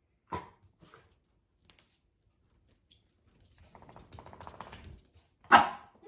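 A pet dog: a short yelp early on, about a second and a half of rapid pattering like claws on a hard floor, then one loud bark near the end.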